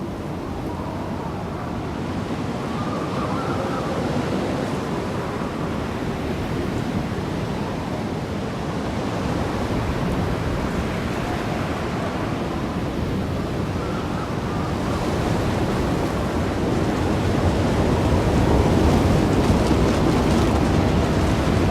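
Steady rushing noise of surf and wind, growing a little louder over the last few seconds.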